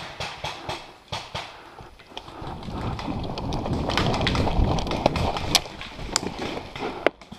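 Footsteps and jostling gear of a paintball player on the move, a regular run of knocks that gives way about two and a half seconds in to a louder rushing scuffle with a few sharp clicks.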